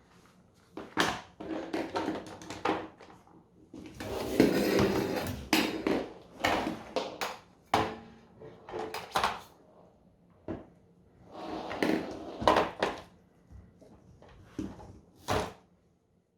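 Unboxing handling noises: irregular knocks and clicks as hard plastic parts and packaging are picked up and set down, with stretches of rustling about four seconds in and again near twelve seconds.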